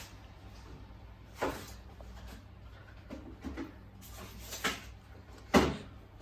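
Samsung WF1700WRW front-loading washing machine running a wash: a steady low hum with irregular knocks and thuds as the drum turns the laundry, the loudest thud near the end.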